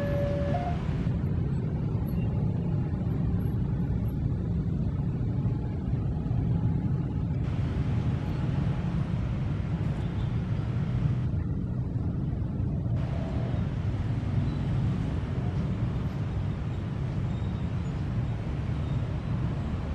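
Steady low rumble of road traffic at a railway level crossing. The crossing's two-tone warning alarm cuts off just under a second in.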